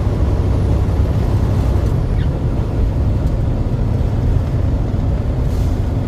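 Steady low rumble of a truck cruising on the highway, engine and road noise heard inside the cab.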